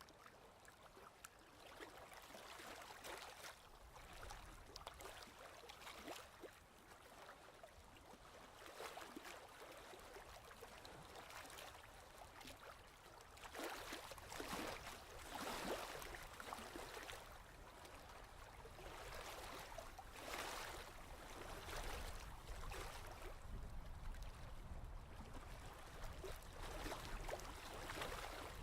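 Faint ocean waves washing in, a soft hiss of surf that swells and falls back every few seconds, a little louder in the second half.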